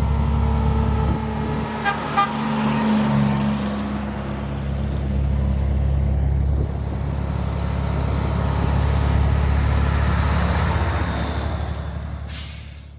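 A truck engine running steadily, with a couple of brief clicks about two seconds in and a short burst of hiss near the end.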